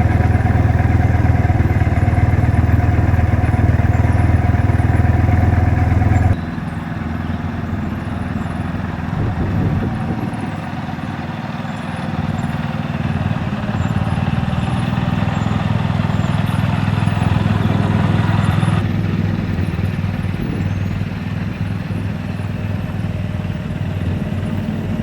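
Car engines running at idle, a steady low hum that changes abruptly twice.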